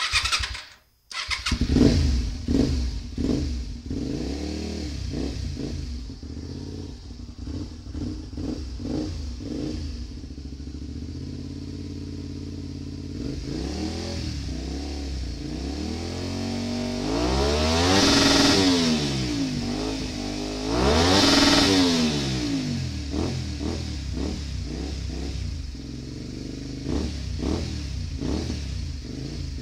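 Honda VTR250's 90-degree V-twin engine being revved while stationary: quick throttle blips, a steadier stretch, then two long revs that climb to a peak about two-thirds of the way in and fall back each time, the revs running up to the rev limiter.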